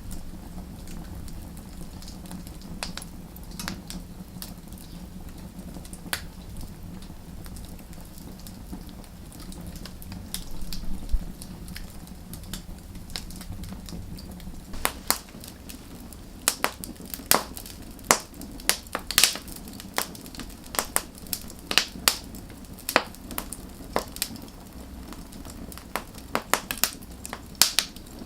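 Wood fire crackling: a steady low flame rumble under sharp pops and snaps of burning wood, the pops coming much thicker and louder in the second half.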